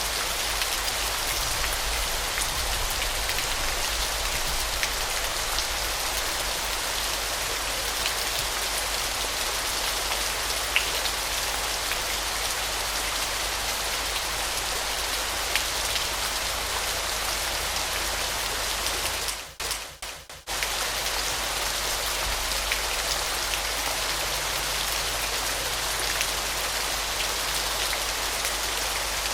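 Waterfall: a steady, dense hiss of falling, splashing water with fine droplet patter. It cuts out abruptly for about a second about two-thirds of the way through, then resumes.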